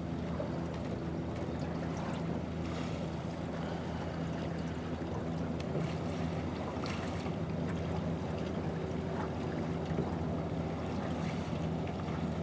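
Rowing shell under way with several rowers pulling: oar blades splash and knock in the water every couple of seconds, over a steady low motor-like hum.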